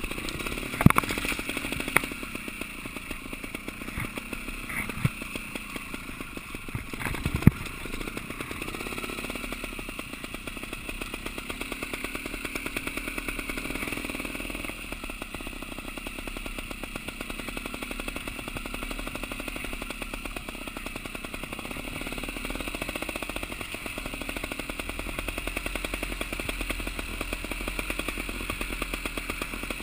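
Trials motorcycle engine running at low, steady revs while the bike is ridden slowly along a rough dirt trail. It is broken by three or four sharp knocks in the first eight seconds.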